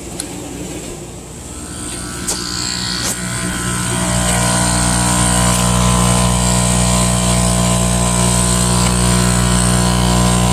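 A motor running with a steady hum, growing louder over the first few seconds and then holding even, with two sharp clicks near the start.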